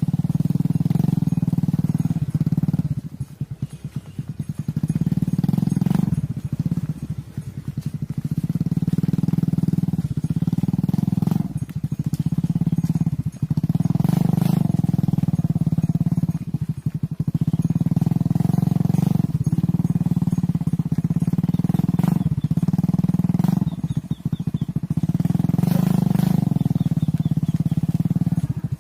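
Cattle mooing: a string of long, low, drawn-out calls, each a few seconds long, following one another with only short breaks. It is the bawling of cows and calves calling to each other while kept apart.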